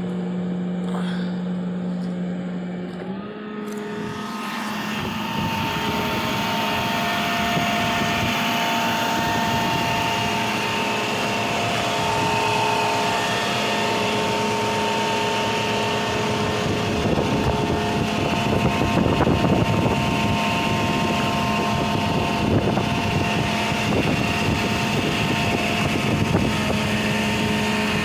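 A 2007 GMC C5500 rollback tow truck running: a steady hum that steps up in pitch about three seconds in, when a louder, rougher mechanical running sound joins and carries on steadily.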